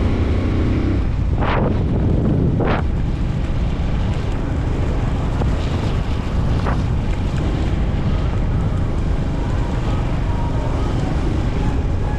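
Wind buffeting the microphone while riding a Honda TMX 125 Alpha, a 125 cc single-cylinder motorcycle, with its engine running steadily underneath. Two short rushes come about a second apart near the start.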